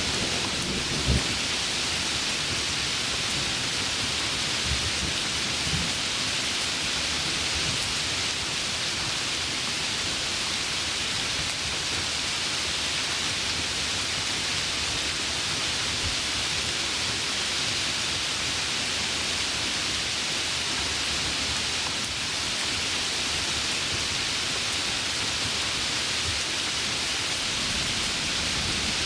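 Heavy rain falling steadily as an even hiss, with a low rumble of thunder in the first seconds.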